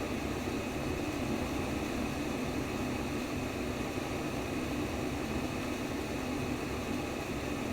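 Steady white noise for baby sleep: a constant, unchanging rushing hiss, fullest in the low-middle range.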